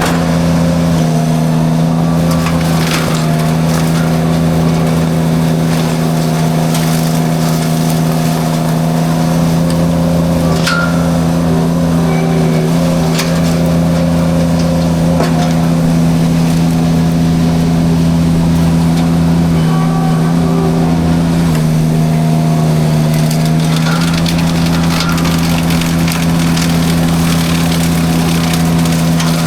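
Derette V1000 mini skid steer running steadily under load with its forestry drum mulcher cutting brush. The engine drone dips slightly in pitch about two-thirds of the way through and recovers a couple of seconds later. Occasional sharp cracks come through over it.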